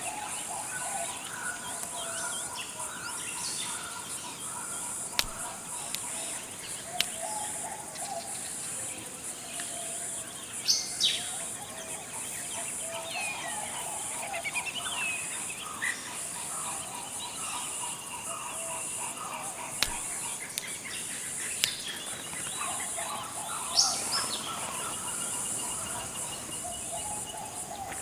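Forest birds calling and chirping on and off, mixing low warbling phrases with sharper high chirps, over a steady high insect-like hiss. A few sharp clicks sound here and there.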